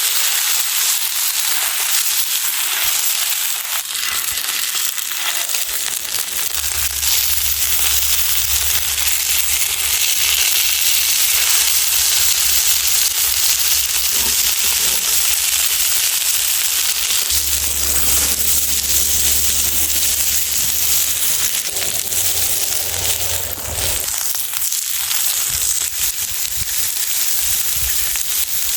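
Loud, steady sizzling with many small crackles and pops. A low hum joins about six seconds in and stops a few seconds before the end.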